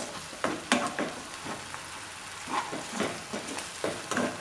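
Onion-tomato masala sizzling in oil in a nonstick kadai, with a few scrapes and taps of a spatula against the pan as it is stirred. The masala is being fried down until the oil separates.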